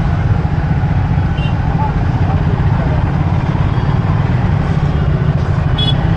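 Motorcycle riding through city traffic: a steady low rumble of wind on the microphone over engine and traffic noise, with a brief high beep near the end.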